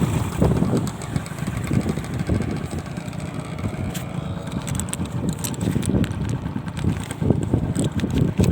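A vehicle's engine running under way, with wind buffeting the microphone in uneven gusts.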